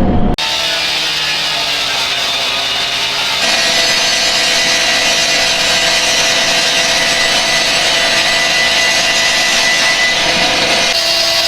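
Two-stroke gas demo saw (cut-off saw) cutting through the steel frame of a trailer, a harsh grinding with a steady high whine. The sound changes abruptly a few times, getting louder and steadier a few seconds in.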